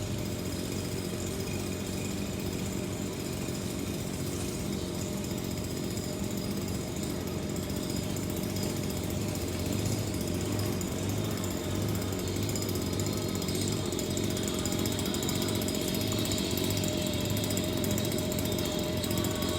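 A small engine running steadily, with a low hum that pulses slightly and gets a little louder about halfway through.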